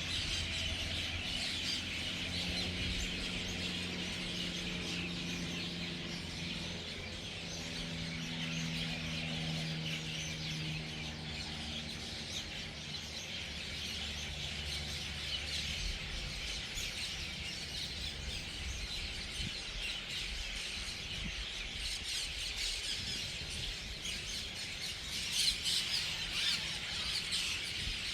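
A large flock of birds chattering and squawking all together at an evening roost, a dense unbroken din of many overlapping calls that swells near the end. A low engine-like hum runs under it through the first half.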